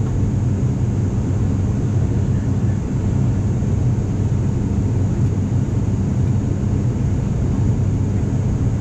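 Steady drone of an ATR 42-500's twin turboprop engines and propellers heard inside the passenger cabin during the climb: a deep even hum with a thin high whine above it.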